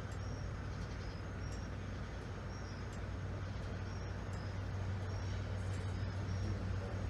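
Steady low rumble of a vehicle engine with a strong hum, over an even noise bed. Short high chirps come and go in pairs throughout.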